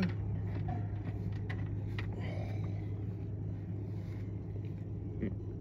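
A vehicle engine idling nearby, a steady low hum that does not change, with a few faint clicks.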